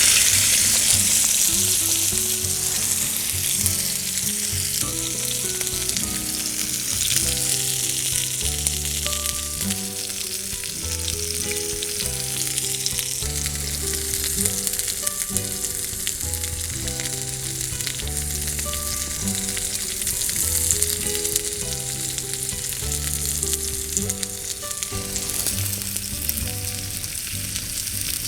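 Steak sizzling in a hot hand-hammered iron frying pan, a loud steady frying hiss that is strongest at the start and eases only a little.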